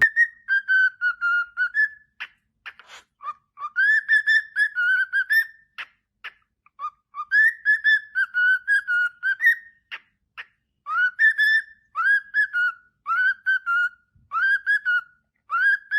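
A parrot whistling in phrases of short, clear notes, each sliding up into a held tone, with a few sharp clicks between the phrases.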